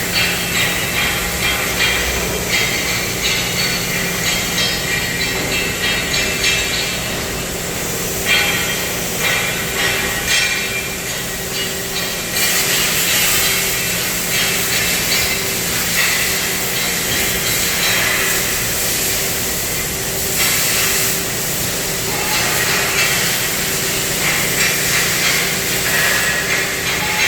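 CNC cutting machine's torch at work: a steady hiss with a constant hum and fine crackling underneath. The hiss grows brighter and louder partway through and again near the end.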